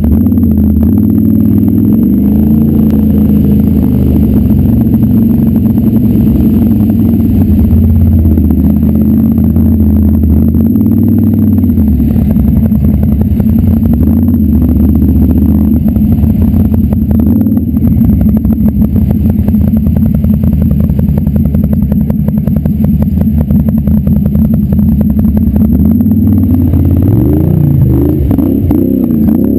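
Off-road vehicle engine running loud and close, its pitch rising and falling as the throttle is worked, with some mechanical clatter.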